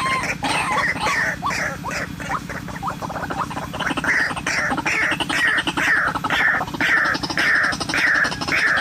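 White-breasted waterhen (ruak-ruak) calling: harsh, irregular notes at first, then from about four seconds in a steady series of falling notes, a little over two a second.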